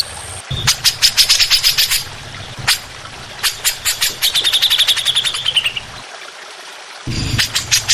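A songbird singing harsh, rapid phrases: a fast run of sharp notes at about ten a second, a single sharp note, then another run ending in a falling trill. The song breaks off for about a second and a new fast chatter starts near the end.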